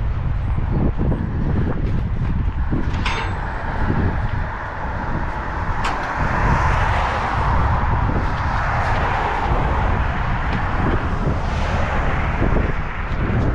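A moving vehicle's steady road rumble with wind rushing past, the rush swelling about halfway through, and a few sharp clicks.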